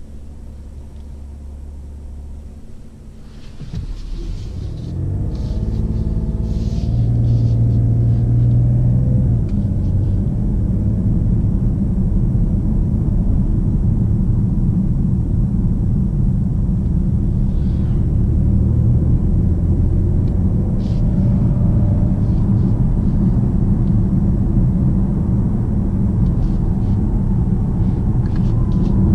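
BMW 750d xDrive's quad-turbo 3.0-litre straight-six diesel heard from inside the cabin: running lightly for the first few seconds, then pulling hard under acceleration with a rising note from about four seconds in, and settling into a loud, steady low rumble of engine and road noise as the car carries speed.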